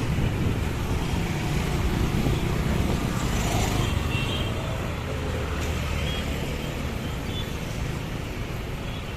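Steady low rumble of a passing vehicle.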